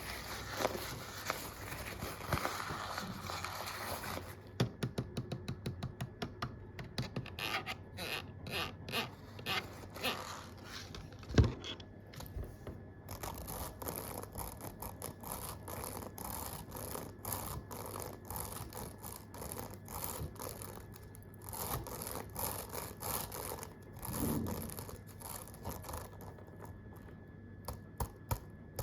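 Close-up ASMR tapping and scraping on objects: a quick run of sharp clicks, then irregular taps and scraping, with one loud knock about eleven seconds in.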